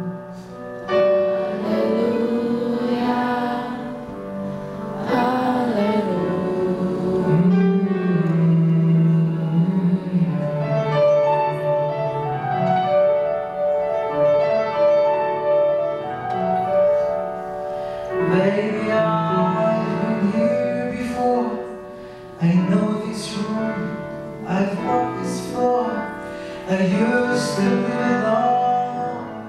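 Live music: a male singer's sustained, drawn-out singing of a slow ballad with piano accompaniment.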